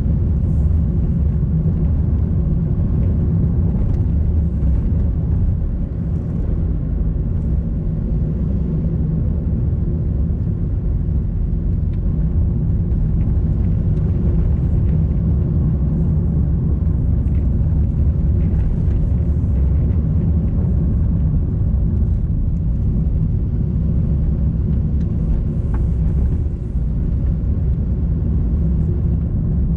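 A car driving at a steady pace: a continuous low rumble of engine and road noise.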